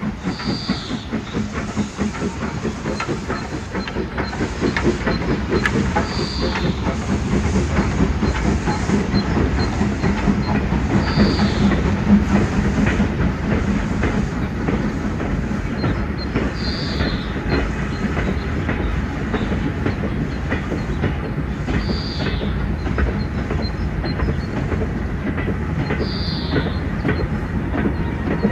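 Train running along the track with a steady, dense rhythmic clatter over a low, steady drone. A short high squeak recurs about every five seconds.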